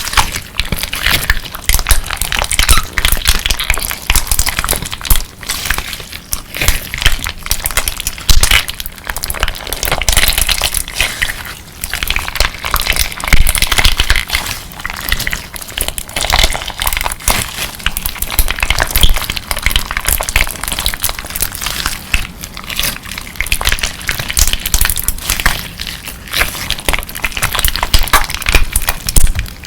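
Clear slime mixed with colourful crunchy crystal pieces being squeezed and pressed by hand, giving a dense, continuous crackle of sharp little clicks and crunches.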